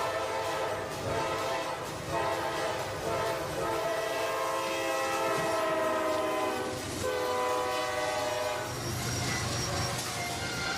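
Train horn sounding in several long blasts with short breaks between them, each a held chord of steady tones.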